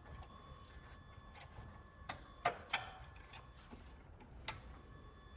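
Faint, scattered clicks and taps of hand tools working on the exhaust muffler's screws, about seven at irregular intervals.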